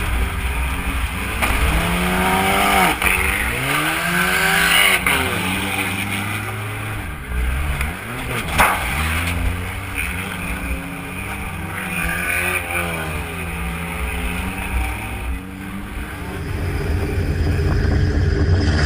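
Derby car's engine revving up and falling back over and over as it is driven hard round the track, heard from inside the stripped cabin, with one sharp bang about eight and a half seconds in.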